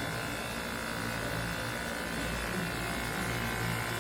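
Dyson V8 cordless stick vacuum running, its motor giving a steady high whine over a low hum.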